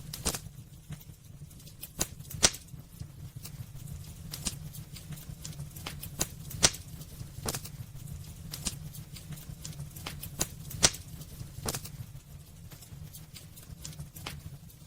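Wood fire crackling in a fireplace: irregular sharp pops and snaps of the burning logs, a few much louder than the rest, over the low steady rumble of the flames.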